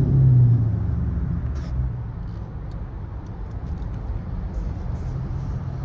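Straight-piped Dodge Charger R/T's V8 exhaust, its note falling away as the throttle closes in the first second, then settling into a steady low drone.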